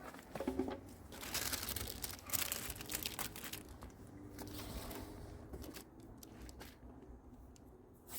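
Masking paper crinkling and rustling as it is handled, loudest and busiest in the first half, then fainter.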